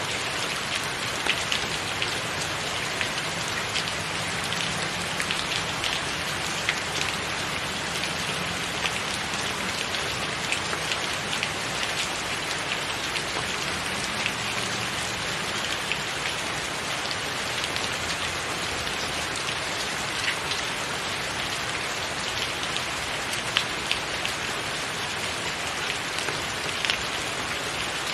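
Steady rain falling, an even hiss with many sharp individual drops tapping close by throughout.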